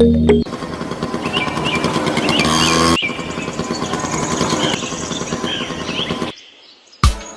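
Birds chirping over a dense, steady rumbling noise, which cuts off suddenly about six seconds in.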